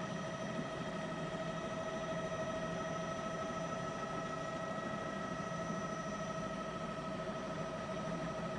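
Steady vehicle noise: an even rush with a constant high whine that doesn't change.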